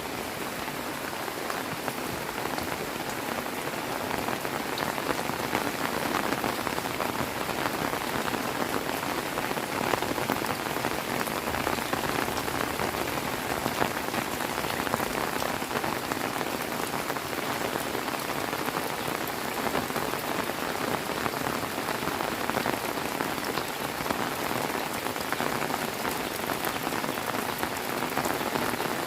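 Heavy rain falling steadily, a dense hiss of countless drops pattering on surfaces.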